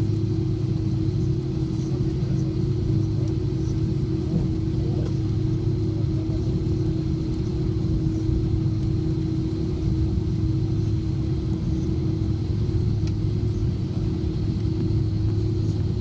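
Airliner cabin noise: the jet engines and airframe give a steady low drone with a constant mid-pitched hum over it.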